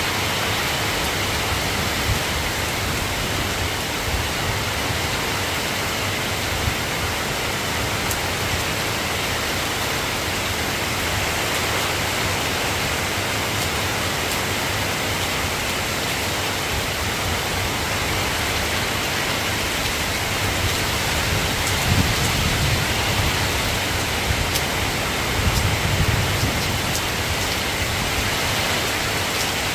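Steady soft rain falling, an even hiss with no single drops standing out, and a couple of brief low rumbles about two-thirds of the way through.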